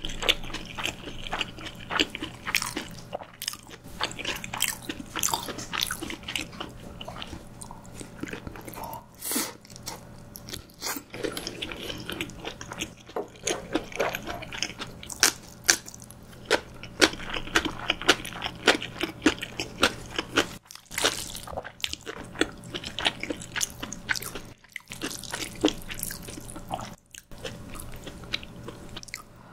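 Close-miked eating: a steady stream of irregular bites, wet smacks and short crunches as steamed dumplings are bitten and chewed, with a few brief pauses in the chewing.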